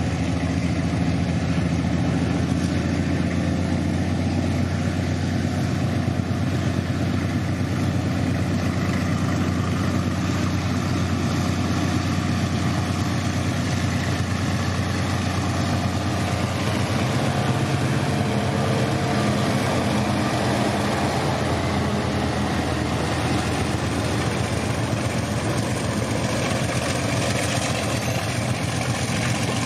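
Diesel engines of an EMD GR12W and an ALCO RSD16 locomotive running in tandem under load, hauling a heavy freight train up a grade. A steady, deep engine drone whose pitch shifts about halfway through.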